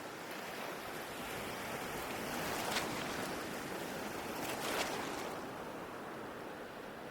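Ocean waves breaking on a shore: a steady rush of surf that swells about two seconds in, with two hissing crests about two seconds apart, then eases off.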